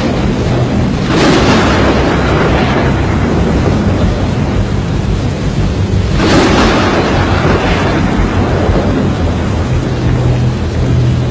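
Storm sound effects from a tornado film: steady rain and wind noise with two loud crashes of thunder, one about a second in and one about six seconds in, each rumbling away over a couple of seconds.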